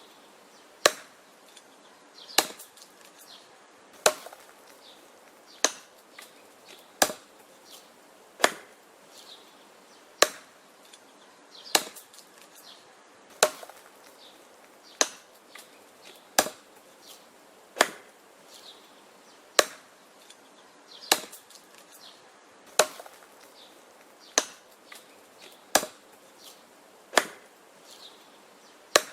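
Wood being chopped: a steady run of single sharp chopping blows, about one every second and a half, with fainter small knocks between the blows.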